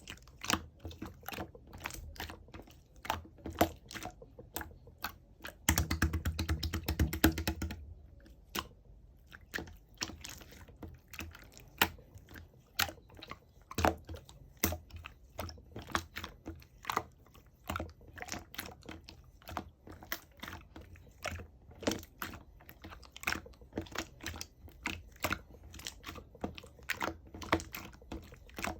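Hands squeezing and poking slime, a steady run of small sticky clicks and pops, with a faster, louder stretch of squishing lasting about two seconds, starting about six seconds in.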